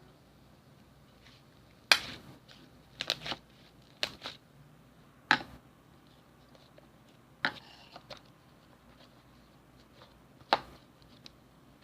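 Slime being pressed and worked by hand: a scattering of sharp, short clicks and pops, about seven of them at uneven intervals, with quiet between.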